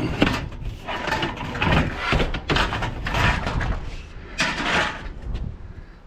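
Repeated knocks, scrapes and rattles of scrap items being handled and loaded, about one every second, over a steady low rumble.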